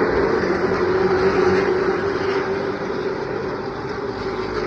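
A pack of pro late model stock cars accelerating hard on a restart, their V8 engines running together in a dense, loud drone that slowly fades as the field pulls away.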